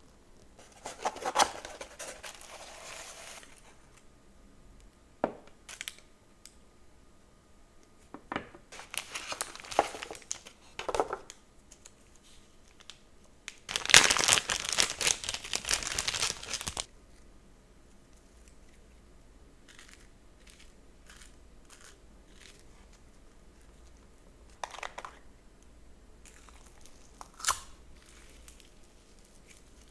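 Plastic packaging crinkling and tearing in bursts, as the wrapping on a slime container is handled and pulled off. The longest and loudest burst comes about halfway through, with a few sharp clicks in between.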